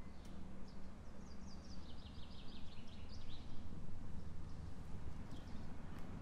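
A small bird singing: a quick run of chirps that falls in pitch, with a few single chirps around it, over a low steady outdoor rumble.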